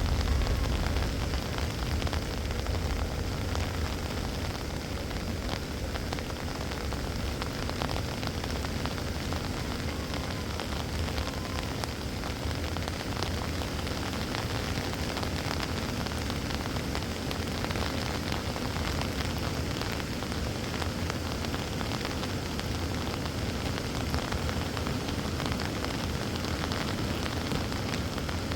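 Steady heavy rain, a dense hiss of falling water with countless small drop ticks over a low rumble.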